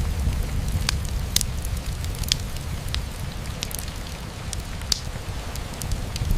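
Rain falling on a window mixed with a wood fire burning in a fireplace: a steady low rumble and hiss, with irregular sharp ticks and pops scattered throughout.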